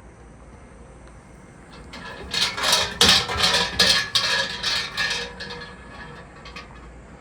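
A burst of metallic jangling and clattering lasting about three seconds, starting about two seconds in, with a light ringing under the strokes.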